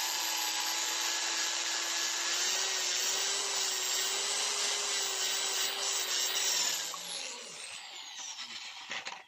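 Electric drill running steadily, spinning an engine valve against its seat with grinding compound to lap it, then winding down, its pitch falling about seven seconds in.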